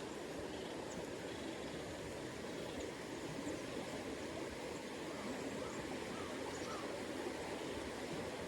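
Steady rushing of river water, a low even wash with no distinct events.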